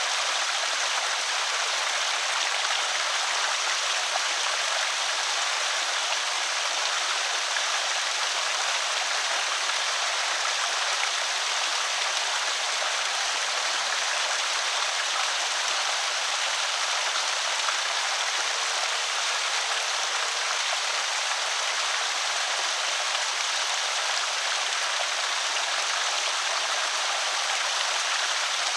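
Water pouring steadily over a small creek spillway, an even rushing and trickling hiss with no let-up.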